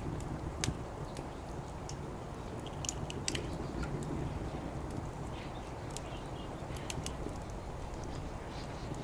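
Wood fire crackling on an open fire pan, with sharp pops scattered irregularly over a steady low rumble.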